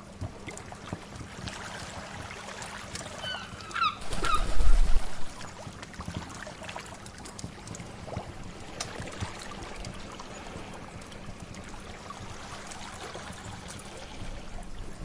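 Crackling fire with scattered small pops over a soft wash of sea waves. A few short bird calls come about three to four seconds in, followed by a brief low rumble, the loudest moment.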